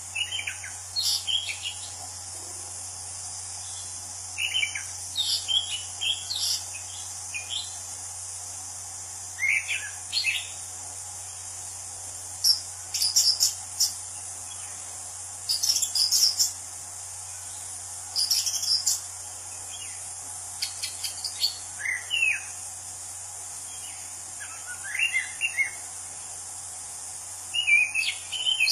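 Anis cendana thrush singing loud, varied phrases of quick sliding whistles, each lasting one to two seconds and repeated every few seconds.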